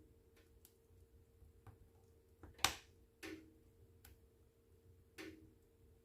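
Wood fire in a fireplace crackling, with irregular sharp pops, the loudest a little under three seconds in.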